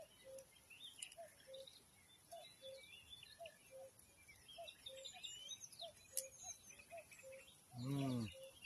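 Birds singing: a low two-note call, falling in pitch, repeats about once a second, with thin high chirps from other birds over it.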